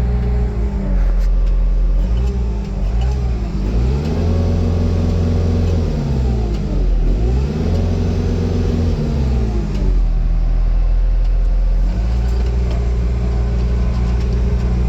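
Bobcat T870 skid steer's four-cylinder Kubota diesel running. In the middle its engine speed swings up and down several times, then it settles back to a steady run near the end.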